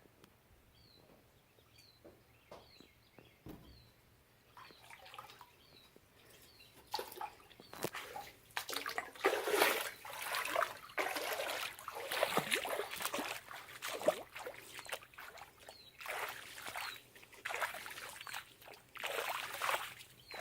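Water sloshing and splashing in irregular bursts, faint at first and louder from about seven seconds in.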